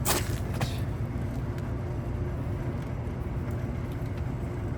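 Steady low background rumble with a faint steady hum, and two short handling noises about half a second apart near the start, during wiring work at an air-conditioner capacitor.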